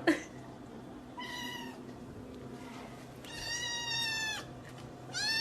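Domestic cat meowing: a short meow about a second in, a longer one a couple of seconds later, and another beginning near the end.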